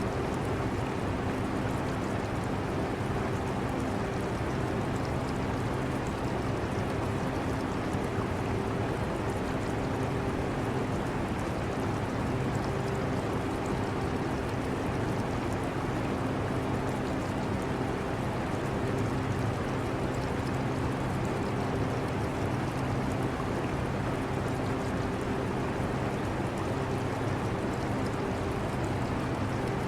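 Steady hum of an air conditioner blended with the constant trickle and bubbling of an aquarium's water.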